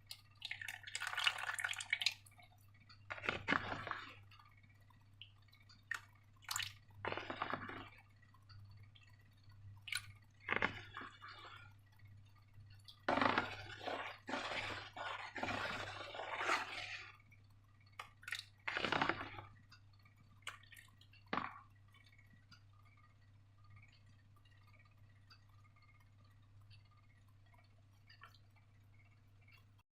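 Slime being handled and squeezed, wet sticky squelching and dripping in irregular short bursts, falling to a faint low hum for the last several seconds.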